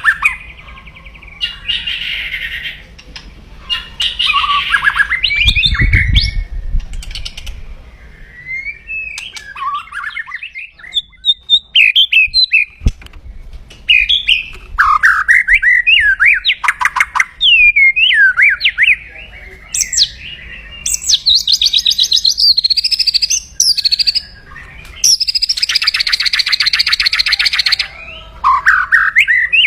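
White-rumped shama (murai batu) singing agitatedly, with loud fluid whistled phrases broken by rapid harsh rattling 'kretekan' calls. A long harsh rattle comes near the end. This is the aggressive call that fanciers use to rouse a rival bird.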